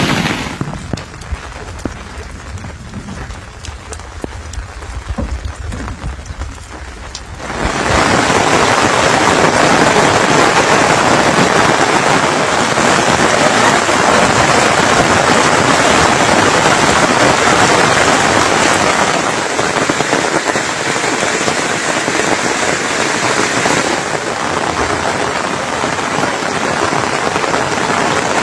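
Rain falling: quieter for about the first seven seconds, with a low rumble and scattered drips, then suddenly a loud, steady downpour.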